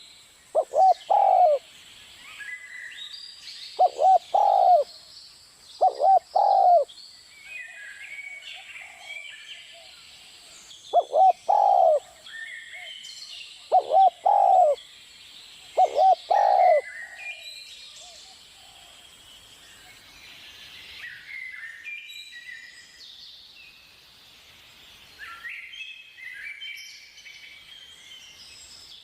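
Zebra dove cooing: six short phrases of quick coos, each about a second long, spread over the first seventeen seconds. Small birds chirp throughout in the background.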